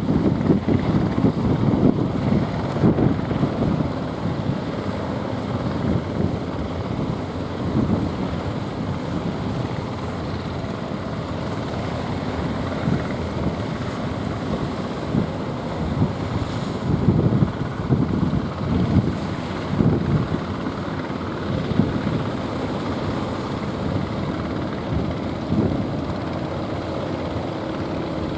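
Strong wind buffeting the microphone in uneven gusts, a heavy low rumble that swells and eases, with the sea beneath it.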